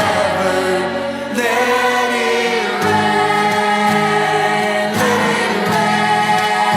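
Gospel choir singing over accompanying music, with sustained chords and a steady bass line.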